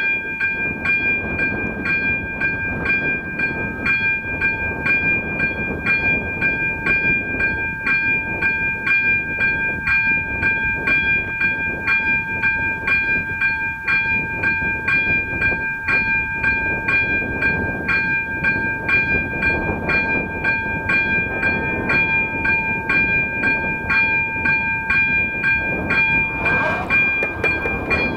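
Czech level-crossing electronic warning bell switching on suddenly and ringing steadily with evenly repeated strikes, signalling that a train is approaching. Near the end there is a short rising-and-falling tone.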